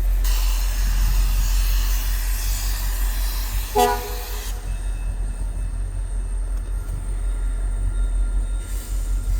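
Passenger-train locomotive horn giving one short blast about four seconds in, over a steady low rumble, with a hiss through the first half.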